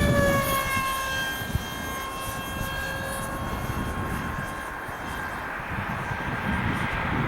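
Electric motor of a Dynam Hawk Sky RC model plane whining in flight. Its pitch falls slowly and it fades over the first few seconds, and wind noise on the microphone rises near the end.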